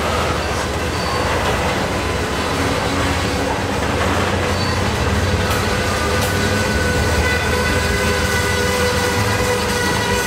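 Freight train of loaded tank cars rolling past, steel wheels running on the rails with a low rumble and clicking over the rail joints. A steady whining tone joins in about seven seconds in.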